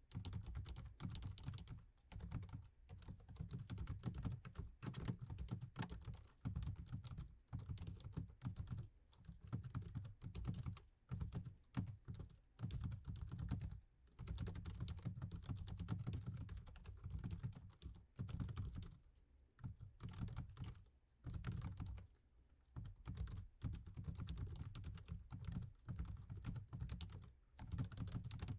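Fast, continuous typing on a laptop keyboard: dense runs of key clicks broken by short pauses every second or two.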